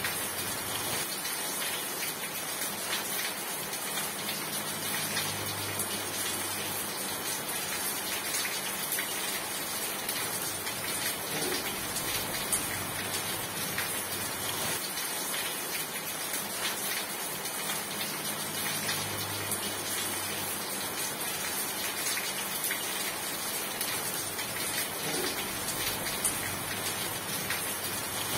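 Steady heavy rain falling, a dense, even hiss full of tiny drop ticks. A faint low hum swells twice under it.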